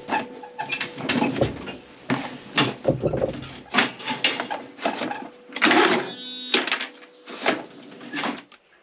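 Irregular knocks, clunks and rattles, a few a second, over a faint steady hum, dying away near the end.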